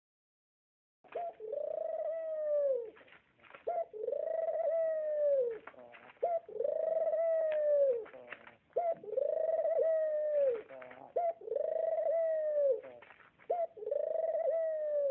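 A bird's call, repeated six times. Each is a long held note of about a second and a half, with a short catch at its start, that drops in pitch at the end.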